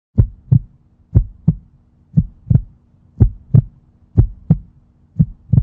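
Heartbeat sound: paired lub-dub thumps, about one beat a second, over a faint steady hum.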